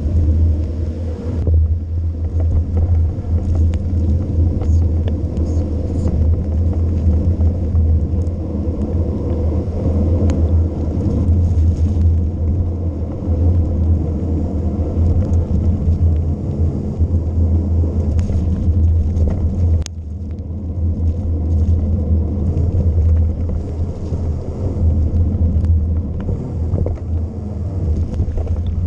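Wind buffeting a bike-mounted camera's microphone during a fast mountain-bike descent: a loud, steady low rumble, with scattered light clicks and rattles from the bike over rough ground.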